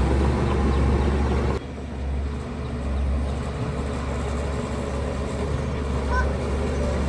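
Heavy diesel construction machinery running with a steady low rumble. About a second and a half in, the sound changes abruptly: the higher-pitched noise drops away while the deep engine drone carries on.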